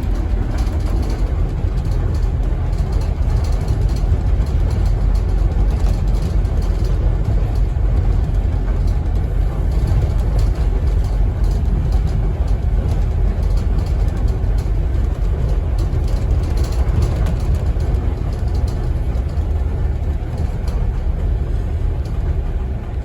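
Interior of a Scania N270UD double-decker bus, its diesel engine running with a steady low rumble inside the cabin and faint rattles over it.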